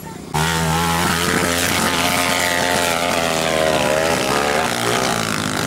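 Dirt-bike engine revving hard under load as it climbs a steep, muddy hill, its pitch wavering up and down. The sound cuts in suddenly just after the start.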